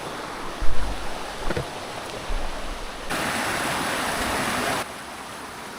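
Rushing water of a spring-fed stream, a steady noise of flowing water, with wind buffeting the microphone in the first two seconds or so. About three seconds in the water noise turns louder and brighter for under two seconds, then drops back suddenly.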